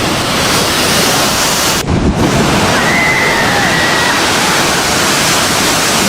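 Heavy storm surf: waves crashing and water rushing, with wind buffeting the microphone. The sound cuts off briefly about two seconds in.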